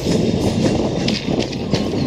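Moving express train heard from beside a passenger coach: steady rumble and rushing noise with the wheels clicking and clattering over the rail joints.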